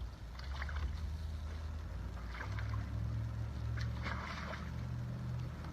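Wet mud and water sloshing in short bursts, three times, as an animal moves about in a mud hole, over a steady low hum.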